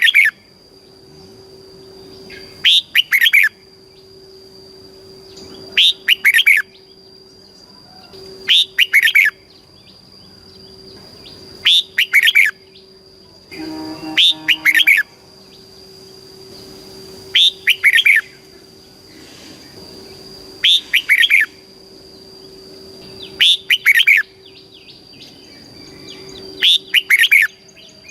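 Red-whiskered bulbul singing short, lively song phrases, one about every three seconds, over a faint steady high tone.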